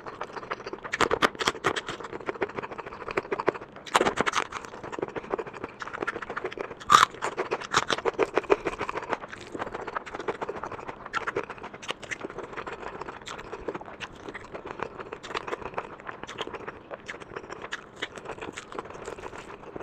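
Close-miked mukbang eating sounds: wet chewing and mouth smacks in a quick, irregular run of clicks, with one sharper click about seven seconds in.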